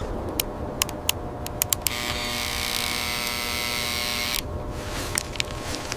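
A small electric motor whirs steadily for about two and a half seconds, starting about two seconds in and cutting off abruptly, amid scattered clicks and knocks.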